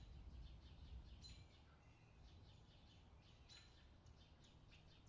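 Near silence with faint, short high bird chirps now and then.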